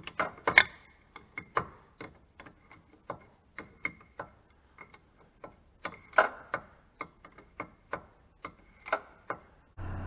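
Irregular sharp clicks and light knocks, a few with a brief metallic ring. Near the end the Chevy Tahoe's engine starts and runs steadily.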